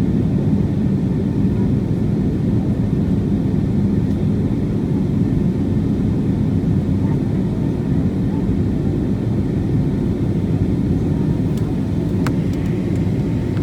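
Steady low rumble of a jet airliner's engines and airflow heard inside the passenger cabin during the climb after take-off. One brief click near the end.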